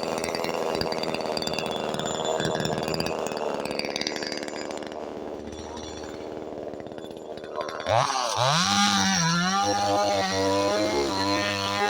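DDE CS 250 two-stroke chainsaw engine running, with its idle speed judged too high. Its sound fades down over several seconds, then about eight seconds in it jumps up sharply with a quick swoop in pitch and settles into a steady, higher run.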